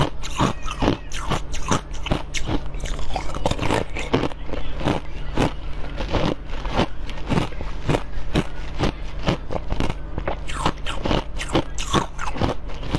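A person biting and chewing food close to the microphone: a rapid run of crisp, crunchy clicks, a few a second, over a steady low hum.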